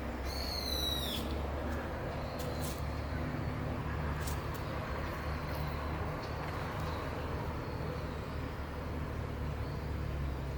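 Outdoor background ambience: a steady low rumble, with one short, high, falling chirp about half a second in and a few faint ticks after it.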